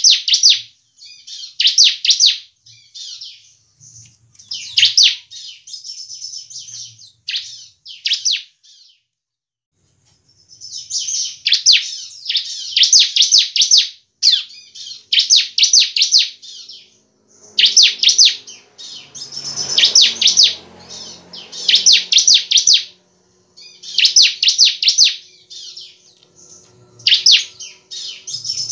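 Bar-winged prinia (ciblek) singing loudly: short bursts of rapid, high, trilled notes repeated about once a second, with a brief pause about nine seconds in.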